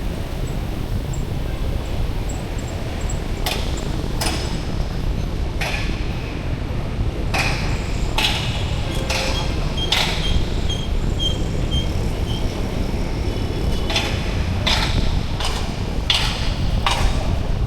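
Outdoor street ambience: a steady low rumble with a run of short, sharp noises roughly once a second from a few seconds in, and a short row of faint high beeps or chirps in the middle.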